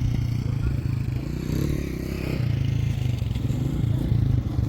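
A motor running steadily with a low hum, with faint scraping and clattering over it.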